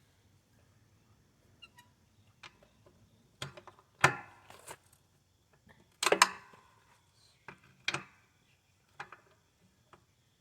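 Hand tools knocking against the metal mower deck and engine as the engine mounting bolts are being worked on: about five sharp metal knocks, each with a short ring, the loudest two near the middle.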